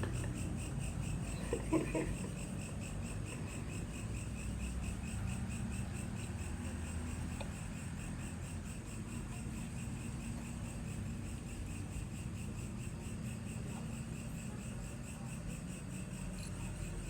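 Crickets chirping at night in a steady, rapidly pulsing chorus, over a low steady hum.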